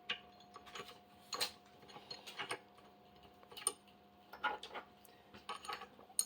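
Irregular small metal clicks and clinks, about one a second, as the bolts of a desktop CNC router's spindle holder are put in loosely by hand. A faint steady hum runs underneath.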